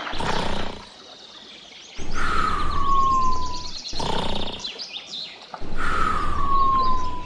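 An outdoor nature sound-effect clip, heard twice: birds chirping over a low rumble, each time with a long, smoothly falling whistle.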